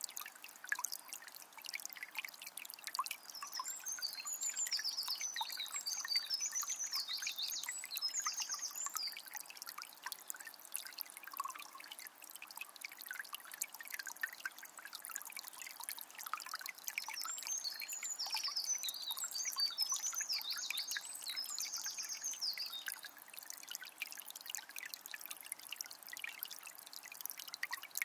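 Forest river flowing and trickling, with many small splashes and drips. A songbird sings two rapid warbling phrases over it, a few seconds in and again after about seventeen seconds.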